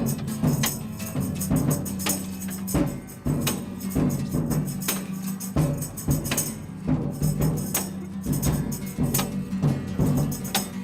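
Percussion music with tambourine jingles and drum or wood-block hits in a busy, steady rhythm over a sustained low tone.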